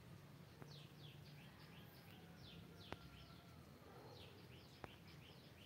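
Faint birds chirping: two runs of quick, falling chirps, one in the first half and another about four seconds in, over a faint low hum. Two faint clicks.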